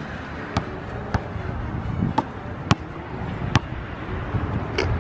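A basketball being dribbled, about six sharp bounces at an uneven pace, over the rumble of wind on the microphone.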